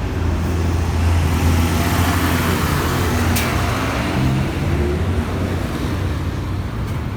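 Diesel city bus passing close by on an avenue: a steady low engine drone with tyre and road noise that swells to its loudest a second or two in, then fades, over general traffic. One sharp click about three and a half seconds in.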